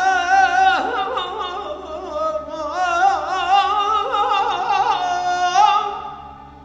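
Azerbaijani mugham singing: a male voice holds long, richly ornamented notes with rapid trills and glides over sustained orchestral accompaniment. It fades out near the end.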